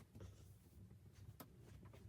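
Near silence: a faint low rumble with two faint clicks, one just after the start and one about a second and a half in.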